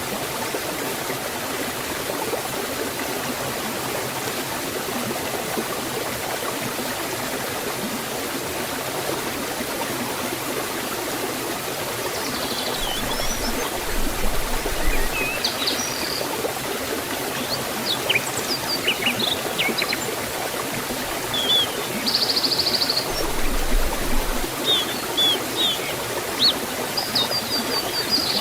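Waterfall and forest stream rushing steadily, with small birds joining in short, high chirps from about halfway through, busier near the end.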